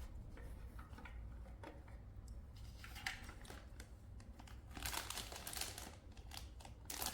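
Faint crinkling and rustling of plastic packaging and scattered clicks of plastic toy parts being handled, with a louder stretch of crinkling about five seconds in.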